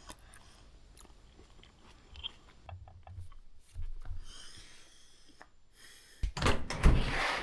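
A person chewing a mouthful of steak, with faint small mouth clicks. About six seconds in, a much louder rushing noise with a low rumble starts.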